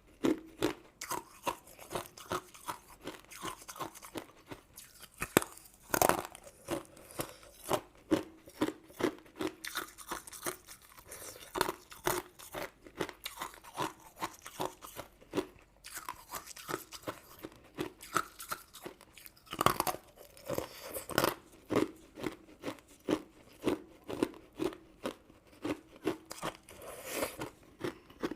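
Close-miked chewing of crunchy, sugar-coated sweets: a steady run of sharp crunches about two a second, with a few louder bites along the way.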